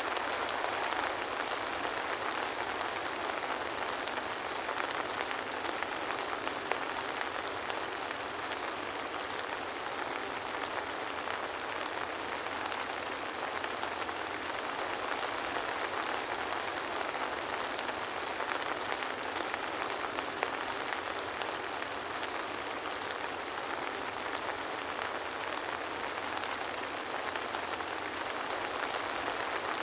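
Steady soft rain falling, an even hiss with fine scattered drop patter and no thunder.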